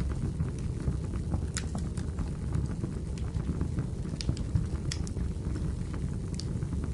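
Wood fire burning in a fireplace: a steady low rumble of flames with scattered sharp crackles and pops from the burning firewood, the loudest snaps about one and a half, four, five and six and a half seconds in.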